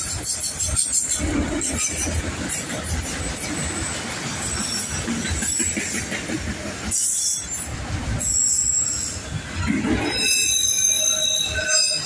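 Freight train of autorack cars rolling past close by, steel wheels running continuously on the rails. High-pitched wheel squeal joins in near the end.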